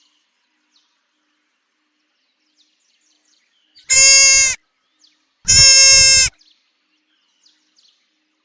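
Goat bleating twice: two loud, high-pitched calls, each under a second long, the second a little longer.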